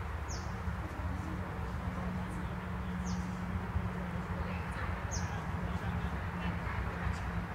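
A bird giving short, high chirps that fall in pitch, three times a couple of seconds apart, over a steady low rumble of outdoor background noise.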